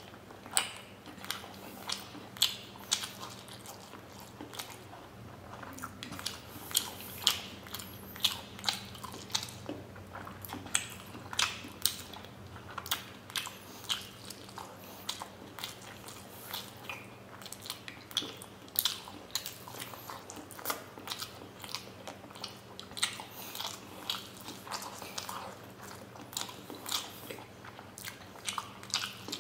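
A person biting and chewing steamed paneer momos close to the microphone: irregular mouth clicks and smacks, several a second, with no pause.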